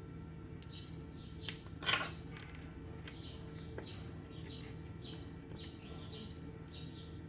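A small bird chirping over and over, about two short chirps a second, over a steady low hum. A sharp click comes about two seconds in.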